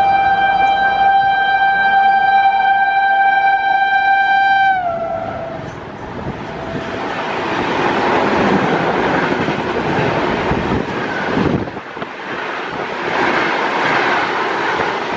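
Electric locomotive horn held in one long steady blast, falling in pitch as it ends about five seconds in. Then the express's passenger coaches rush past at full line speed, a loud continuous rumble and clatter of wheels on rail.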